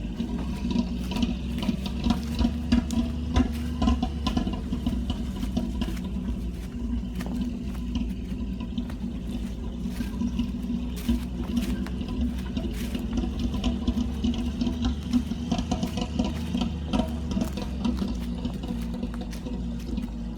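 A 1960 Ford one-ton flatbed's straight-six gasoline engine pulling steadily at low speed, with frequent rattles and knocks from the truck.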